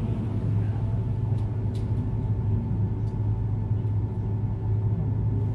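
Steady low hum with a few faint ticks: background drone of the room or its sound system.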